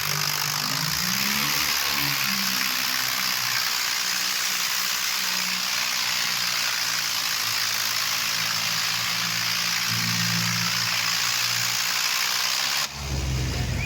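Tractor diesel engines running hard and revving, their pitch wandering up and down under a steady hiss. Near the end the sound cuts abruptly to a deeper, closer engine.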